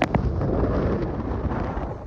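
Strong gusting wind buffeting the microphone: a dense, low rumbling noise with no tones in it, easing a little toward the end.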